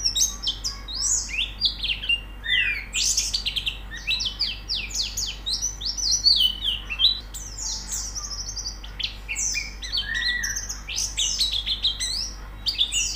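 White-eyes (pleci) singing in a dense, fast twitter of high chirped notes that overlap almost without pause.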